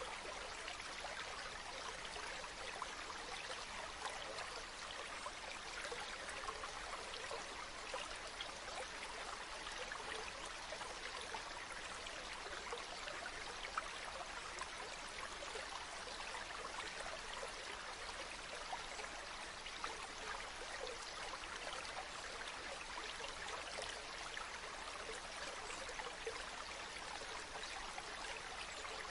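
Running water from a small spring, trickling and splashing steadily with a fine, busy crackle.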